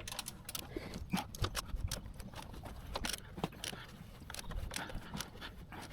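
A 1.6 TDCi diesel engine being turned over by hand with a wrench on the crankshaft bolt, giving irregular sharp clicks and knocks, several a second. The engine is being rotated to check that the timing marks line up with the new timing belt fitted.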